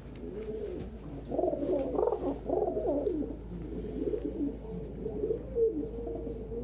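Several pigeons cooing together in a loft, with a squab's high, short begging squeaks repeating over them a little faster than once a second. The squeaks pause for a couple of seconds in the middle, then start again near the end.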